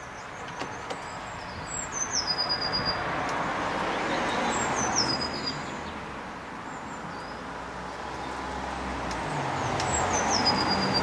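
A bird calls three times, each a short high note that drops in pitch and then holds briefly, over the noise of road traffic that swells and fades twice.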